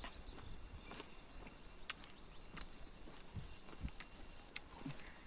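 Faint, steady high-pitched insect chorus, with a few scattered soft clicks or taps over it.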